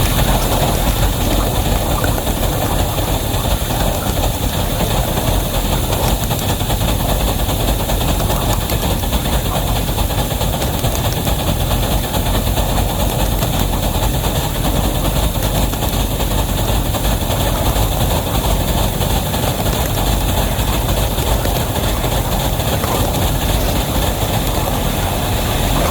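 Wabash locomotive #713 with a heavy train, running steadily: engine noise mixed with the rumble of cars on the rails, without a break.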